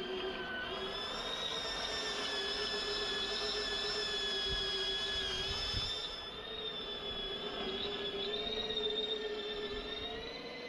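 Electric power tool running with a steady high whine, its pitch wavering slightly.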